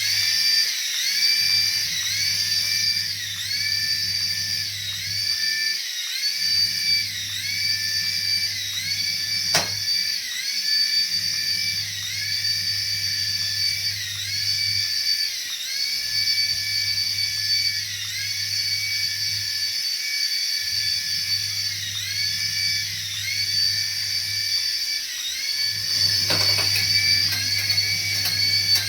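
A high electronic whine from a battery-powered toy, its pitch dipping and recovering about once a second, over a low hum that cuts out briefly every four to five seconds.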